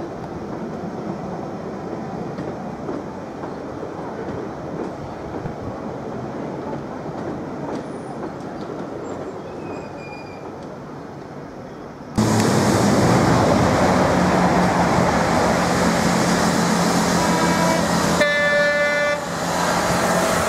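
London Underground tube train running along the track with a low rumble. About twelve seconds in the sound changes abruptly to a Class 43 HST diesel power car approaching, loud with a steady low hum, and about six seconds later it sounds its horn once for about a second.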